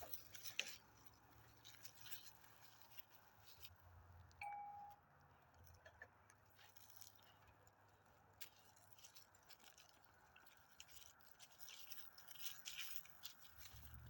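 Near silence with faint scattered clicks and rattles, and one short beep about four and a half seconds in.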